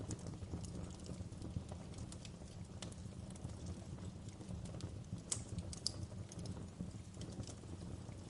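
Wood fire burning in a fireplace: a steady low rumble of the flames with irregular sharp crackles and pops of burning logs, a couple of louder pops a little past the middle.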